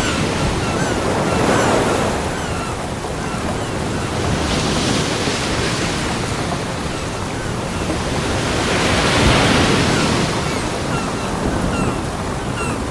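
Ocean waves breaking on a beach, a steady wash of surf that swells in slow surges about every four seconds, with faint short high chirps scattered throughout.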